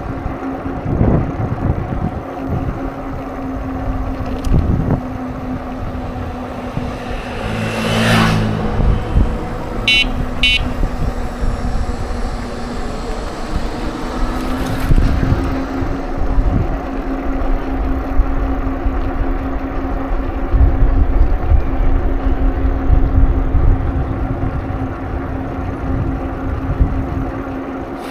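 Bicycle ride recorded on the move: a steady rumble of wind and tyres with a constant low hum. A motor vehicle passes about eight seconds in, followed by two short high-pitched tones.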